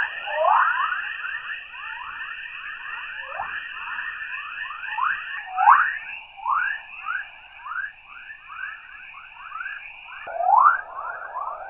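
Space radio and plasma-wave recording converted to sound: a dense, continuous run of short chirps, each rising in pitch, several a second, over a steady high tone.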